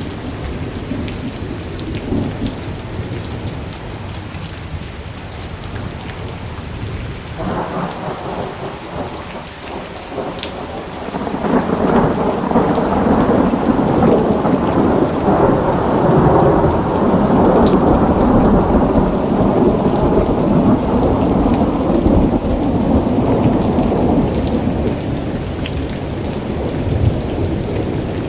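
Steady rain with a long rolling rumble of thunder that starts about a quarter of the way in, grows loud past the middle, then slowly dies away near the end.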